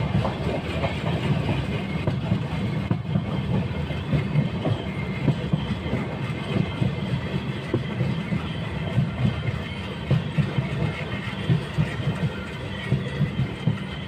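Passenger train coach running at speed, heard from inside the coach: a steady rumble and rattle with frequent irregular clicks and knocks from the wheels on the rails.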